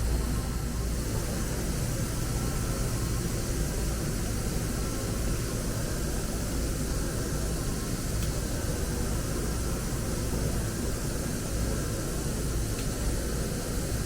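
2008 OKK HM500S CNC horizontal mill running under power: a steady low hum with an even hiss, and two faint ticks about eight and thirteen seconds in.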